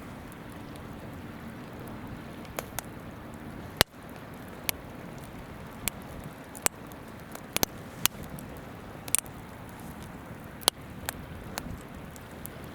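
Wood campfire crackling, with sharp irregular pops about every second, the loudest about four seconds in, over the steady rush of a river.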